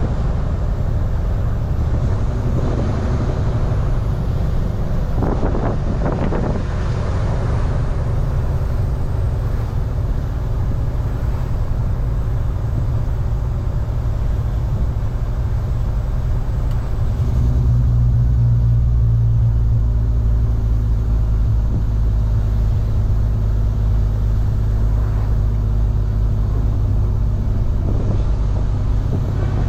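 Tractor-trailer's diesel engine running with a steady low drone, which grows louder and deeper a little over halfway through, as under heavier load.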